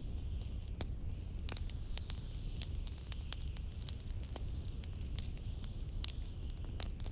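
Wood fire crackling, with frequent sharp pops and snaps, over a steady low rumble of blizzard wind.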